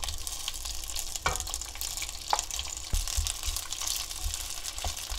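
Pieces of semi-dried conger eel sizzling as they hit hot oil in a frying pan and are stirred with a wooden spatula. A few light knocks, about a second in and near the middle, come from pieces and the spatula against the pan.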